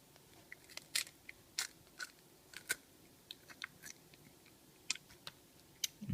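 A person biting and chewing crunchy food close to the microphone: a string of irregular sharp crunches with short quiet gaps between them.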